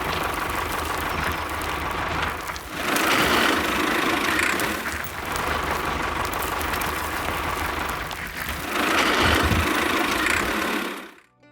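Small motor of a DIY mini vehicle running with a rattling, engine-like sound. It grows louder twice, about three seconds in and again near the end, then cuts off suddenly.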